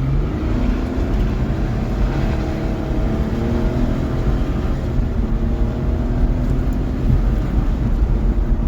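Ford Ranger pickup's engine accelerating hard at high speed, its pitch climbing slowly, over a heavy low road and wind rumble.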